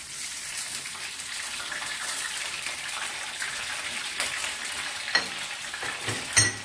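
Garlic-ginger paste sizzling in hot oil in a karahi, a steady hissing fry, with a few faint clicks and one sharp knock near the end.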